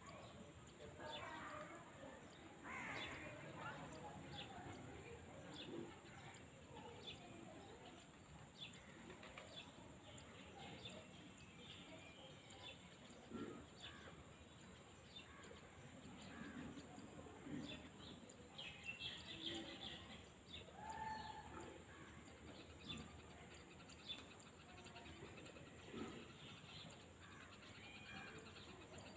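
Faint open-field countryside ambience with scattered short bird chirps and calls through it.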